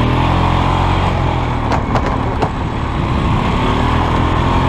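2002 Polaris Sportsman 500 H.O. ATV's single-cylinder four-stroke engine running steadily while riding, with three short sharp knocks near the middle.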